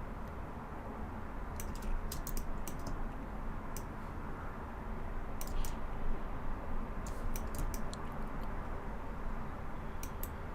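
Computer keyboard keys being pressed in short clusters of clicks, with gaps between, over a steady low background hum.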